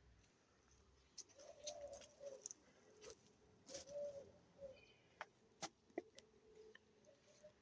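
Faint, low bird calls in short repeated phrases, with a few sharp faint ticks.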